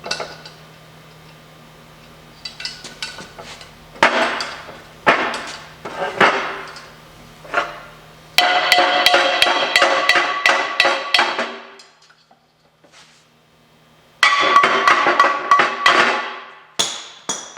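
Hammer blows on metal with a ringing tone: scattered strikes at first, then two fast flurries of about five blows a second, knocking a bearing out of a torch-heated aluminum transfer case.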